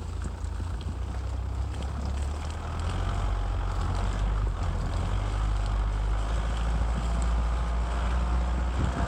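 Motocross motorcycle engine running under wind rumble on the microphone, the engine note rising and falling faintly behind the wind.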